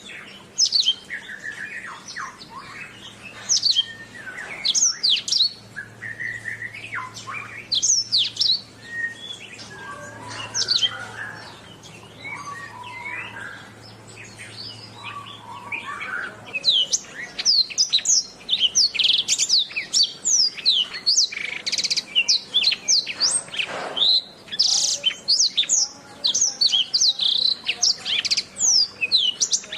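Domestic canary singing a long run of quick whistled sweeps, chirps and trills; the song thins out and drops lower for a stretch in the middle, then turns into dense, rapid trilling from a little past halfway.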